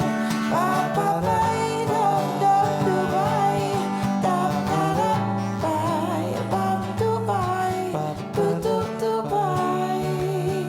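Acoustic guitar playing with a wordless, sustained vocal melody over it, in a live acoustic pop performance.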